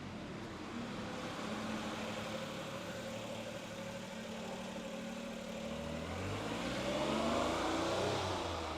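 A car engine speeding up and passing, its pitch rising and loudest about seven seconds in, over a steady low engine hum.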